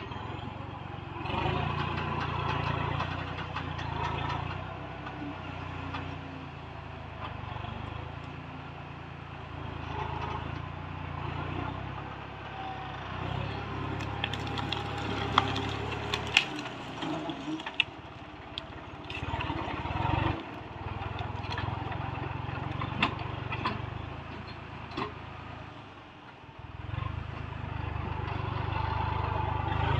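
Tractor engine running with a low drone that swells and eases, with sharp cracks and knocks scattered through the middle; the engine sound drops away briefly a few times.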